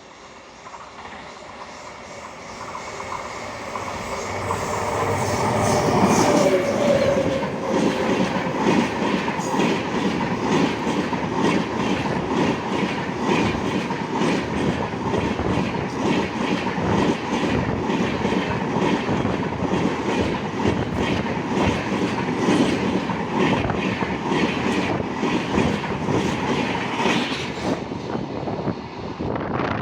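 Indian Railways train approaching and passing at speed. It builds in loudness over the first six seconds, then runs as a long stream of rapid, regular wheel clicks over the rail joints as the coaches go by, easing off near the end.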